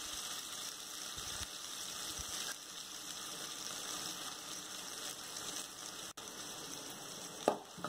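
Watery garlic paste sizzling in hot oil with mustard seeds in an aluminium kadai, a steady even hiss as it sautés. A brief knock near the end.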